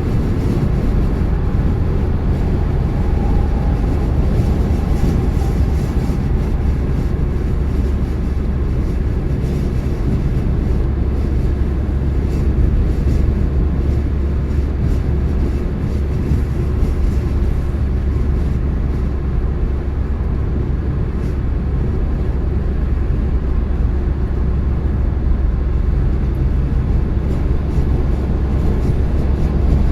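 A car driving at a steady speed: an even, low rumble of tyres on the road and the engine, with no distinct events.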